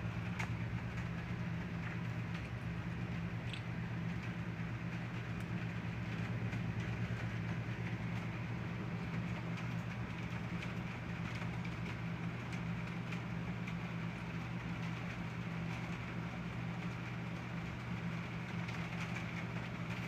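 Heavy rain pouring down steadily, with scattered light ticks of drops and a steady low hum underneath.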